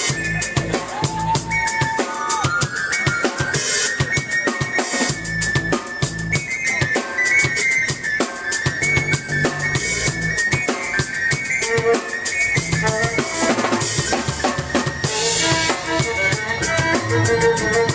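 Live band music: a driving drum kit beat with kick and snare under sustained melody lines from keyboard and violin, over a deep bass.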